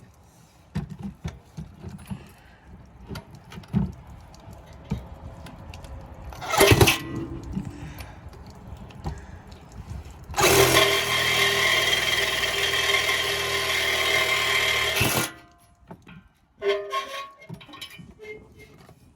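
A power cutting tool runs steadily for about five seconds, starting just past the middle and stopping abruptly, as it cuts through the steel exhaust pipe to remove the muffler. Before that there are scattered knocks and clanks and a short loud burst about seven seconds in.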